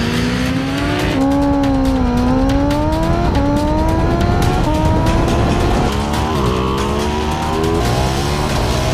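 Sportbike engines accelerating hard at full throttle, the pitch climbing through the revs and dropping sharply at each of several upshifts.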